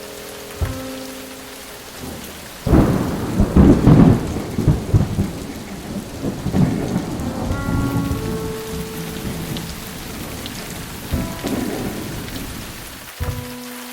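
Thunderstorm: steady rain with thunder, a short crack just under a second in, then a long loud peal from about three seconds that rolls off over several seconds, and another rumble about eleven seconds in.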